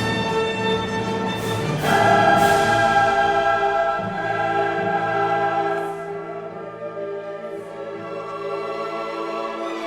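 Background classical choral music: a choir with orchestra holding sustained chords. A louder chord enters about two seconds in, and the music grows softer from about six seconds on.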